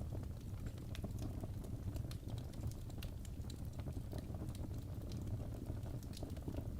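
Wood logs burning in a fireplace, crackling with many small irregular pops and snaps over a steady low rumble of the flames.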